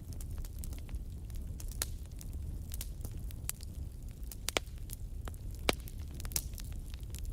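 Wood campfire crackling, with irregular sharp pops, the loudest a little past halfway, over a low steady rumble.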